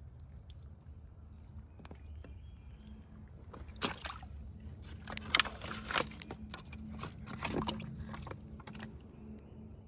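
Paddling a small kayak or canoe: water sloshing around the paddle and hull, with a run of sharp knocks and splashes from about four seconds in, the loudest a little past five seconds.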